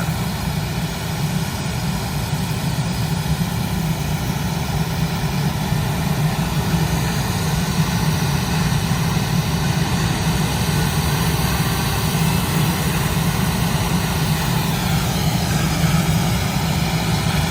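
Jet engines of the Blue Angels' F/A-18 Super Hornets running steadily at low power as they taxi and line up for takeoff, a low drone with a steady high whine. Near the end one whine dips slightly in pitch.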